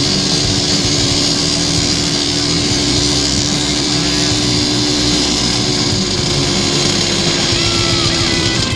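Agrale 27.5 two-stroke motorcycle engine running steadily at a held cruising pitch under way, with a strong hiss over it.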